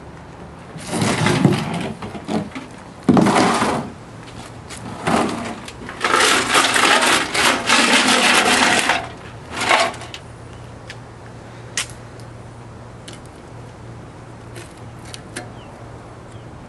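Loose bolts and nuts rattling and clattering inside a steel motorcycle gas tank as it is shaken to empty them out, along with the rust they knocked loose. The rattling comes in several irregular spurts, the longest about three seconds in the middle, then a few single clinks.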